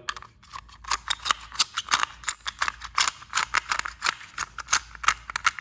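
Rapid, irregular clicking and rattling of a small battery-powered toy train engine being handled and turned over, its parts knocking together.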